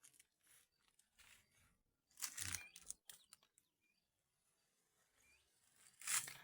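Dry vegetation rustling and crunching in two louder bursts, about two seconds in and again near the end, with softer rustles between them.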